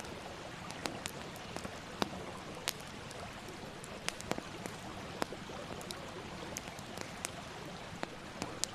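Campfire burning: a steady hiss with irregular sharp crackles and pops, a few each second.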